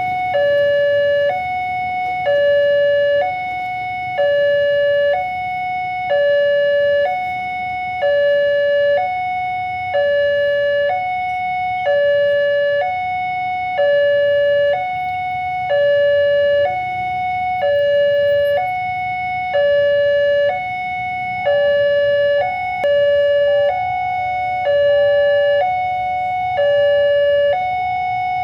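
Railway level-crossing warning alarm sounding its electronic two-tone chime, a lower and a higher tone alternating evenly, each held for just under a second. A faint low rumble lies beneath.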